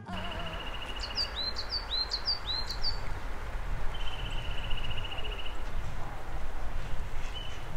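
Small birds calling: a run of short, high, downward-slurred chirps, and twice a fast trill lasting about a second, over a low steady rumble.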